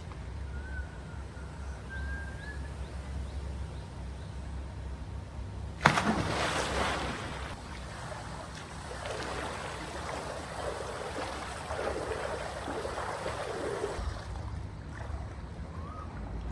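A person jumping into a swimming pool: one loud splash about six seconds in, followed by several seconds of churning, sloshing water that dies down.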